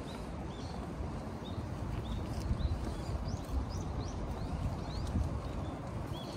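Small birds chirping, short high notes repeated about every half second, over a steady low rumble of outdoor background noise.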